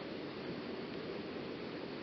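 Waterfall rushing: a steady, even sound of falling water with no breaks.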